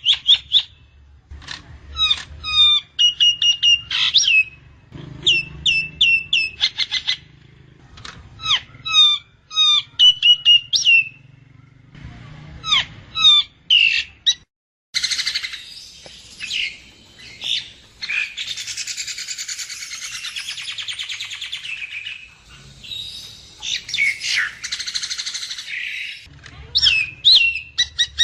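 Nias hill myna calling: bursts of loud, sharp whistled notes, each sliding downward and repeated in quick series. Just before halfway there is an abrupt break, followed by several seconds of dense, continuous chattering song. Whistled calls come back near the end.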